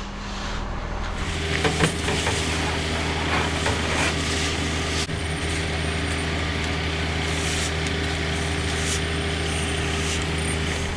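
Heavy diesel engine running steadily, settling into an even drone about a second in, with a few brief knocks and scrapes over it.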